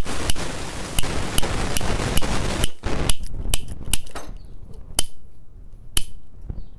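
Toy cap gun firing caps: a quick run of sharp pops in the first few seconds, then single cracks about a second apart.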